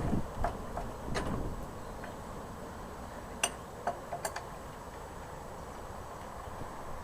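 Several separate sharp metallic clicks and clinks of hand tools against metal fittings, scattered over a few seconds, with wind buffeting the microphone at the start.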